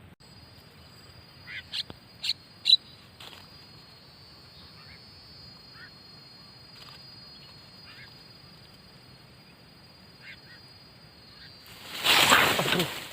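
A few short, sharp bird calls about two seconds in, over a thin, steady high tone that stops near the end. A loud rustling noise follows near the end.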